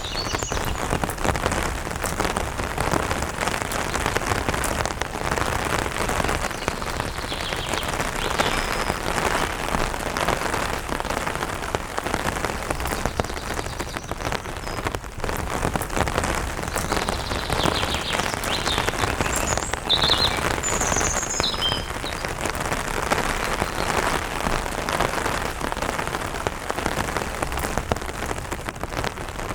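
Light rain falling steadily on an umbrella, a dense even patter of drops. A few short, high bird chirps come through it around a third of the way in and again past the middle.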